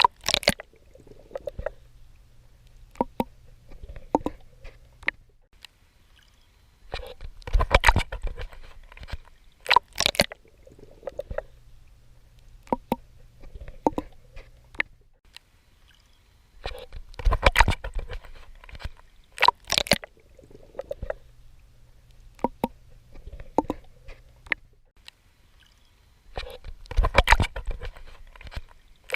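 Water splashing and sloshing from swimming strokes: loud bursts of splashing about every ten seconds, with quieter splashes and drips between them.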